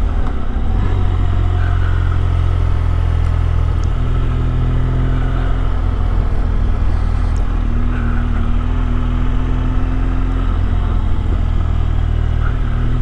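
BMW R1200GS boxer-twin engine running steadily on a light throttle, mixed with rushing wind, as the motorcycle rolls downhill. The engine note shifts slightly a few times but stays even.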